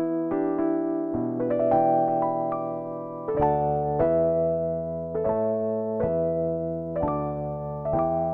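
Korg N364 synthesizer workstation playing one of its bank B programs: held chords with a melody over them, new notes struck about once a second and a lower bass part coming in about three seconds in.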